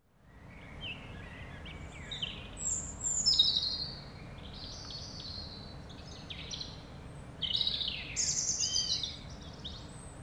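Birdsong: several birds chirping and trilling over a steady low outdoor rumble, fading in at the start and growing louder near the end.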